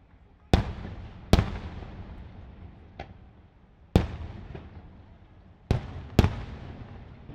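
Fireworks shells bursting overhead: about six sharp bangs spaced unevenly, each followed by a long fading rumble and echo.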